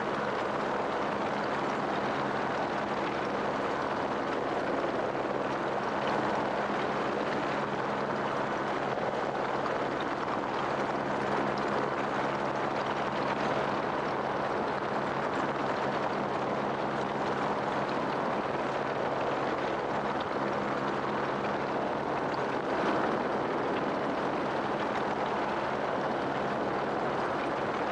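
Helicopter running steadily in flight: a constant engine and rotor drone with a low steady hum and rushing air noise, unbroken throughout.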